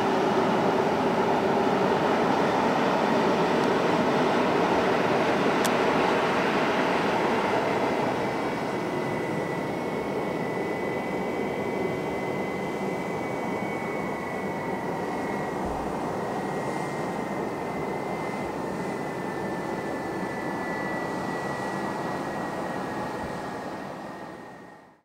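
Airbus A320 jet engines and airflow heard from inside the cabin: a loud steady rush that eases about eight seconds in, leaving a high engine whine that slowly falls in pitch before fading out. A single click about six seconds in.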